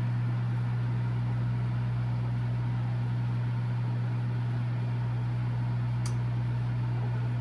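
A fan's electric motor running steadily: a strong low hum with a constant hiss over it, and a faint short click about six seconds in.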